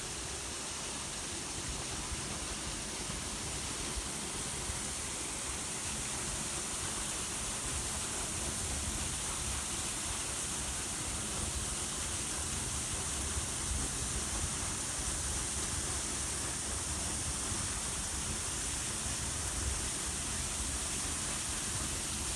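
Waterfall giving a steady rush of falling water, with an uneven low rumble underneath.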